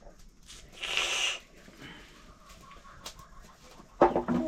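A domestic chicken gives one short, harsh squawk about a second in. A person's voice starts near the end.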